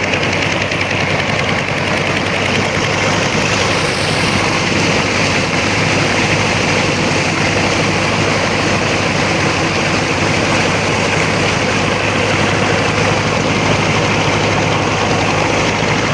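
Old tractor engine running steadily at a constant speed, evenly, with no change in pitch or level.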